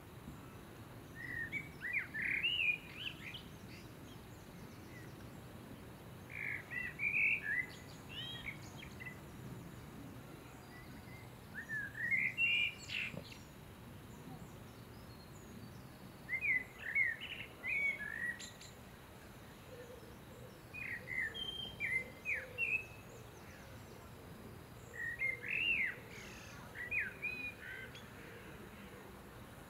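A songbird singing a short burst of quick chirping notes, repeated about every four to five seconds, six times, over faint steady low background noise.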